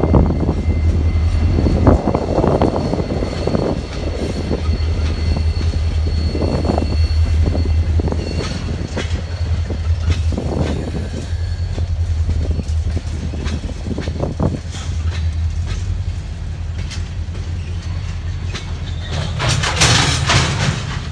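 Freight train rolling past: a CSX SD40-3 diesel locomotive goes by at the start, then a string of empty flatcars, its wheels clicking over rail joints over a steady low rumble. A louder rush of high-pitched noise comes near the end.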